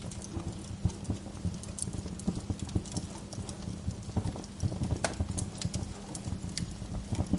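Wood fire crackling in a fireplace: irregular snaps and pops, some sharper and louder than others, over a steady low rumble of the burning fire.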